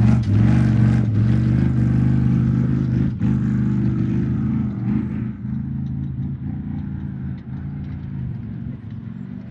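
Off-road race vehicle's engine running hard at high revs, with brief dips as it shifts gears, fading steadily as it moves away.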